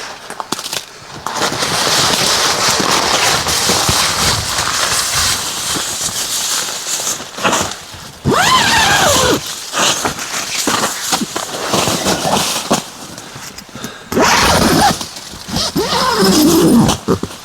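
Nylon tent fabric rustling and a tent zipper being pulled shut, with a squealing pitch slide about eight seconds in and another wavering squeal near the end.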